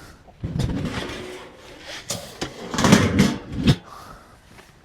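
A door or hatch being opened and handled: scraping and rattling with several knocks, the loudest about three seconds in and a sharp knock a little later.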